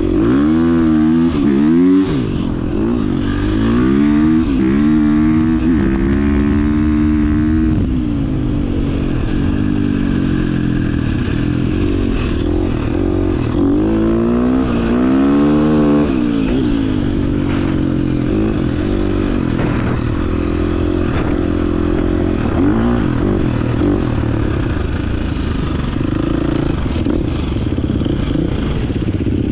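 Dirt bike engine revving and accelerating, its pitch climbing in several runs, near the start, from about four to eight seconds and again around fourteen to sixteen seconds, and holding more evenly in between.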